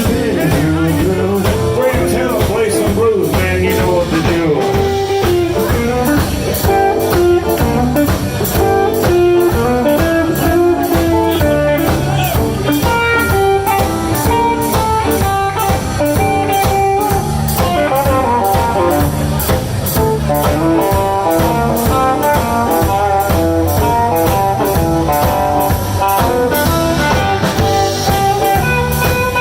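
Live blues band playing an instrumental passage: a lead melody line over bass and drums with a steady beat.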